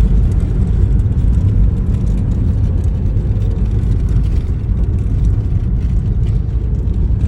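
Loud, steady low rumbling noise with no distinct tones.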